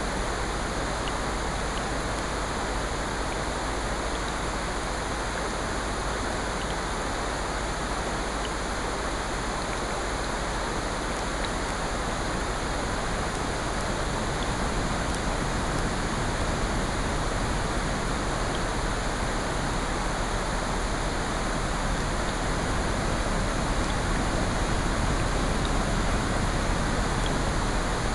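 Steady rain layered with ocean surf and a fireplace, mixed as a sleep soundscape: an even, unbroken rush with faint scattered ticks, swelling slightly after the middle.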